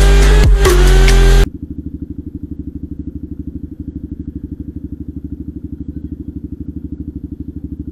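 Loud electronic music cuts off about one and a half seconds in. A motorcycle engine then idles steadily, with an even, rapid pulse.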